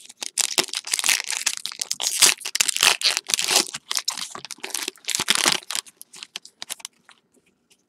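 Foil trading card pack wrappers being torn open and crinkled, with rapid crackling rustles that thin out after about six seconds.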